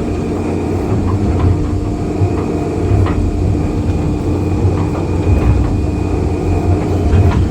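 Excavator's diesel engine running steadily under load as the machine moves a concrete piece, with a few light knocks from the work.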